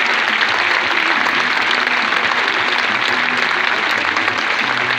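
Crowd applauding steadily, a dense even clatter of many hands clapping.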